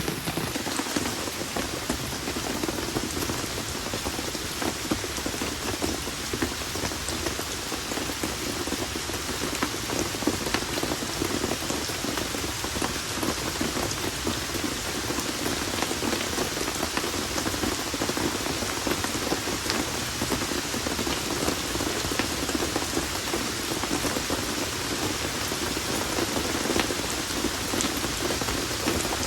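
Steady rain falling, with many small drop impacts ticking through an even hiss.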